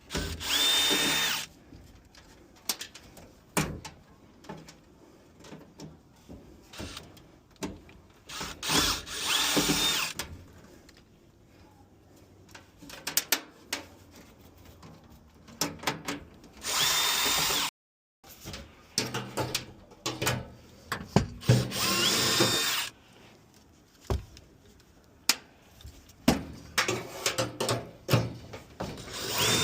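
Power drill-driver run in several short bursts of about a second each, its motor whine rising at the start of every burst, while fasteners are driven during a furnace blower motor replacement. Scattered clicks and knocks of parts being handled fall between the bursts.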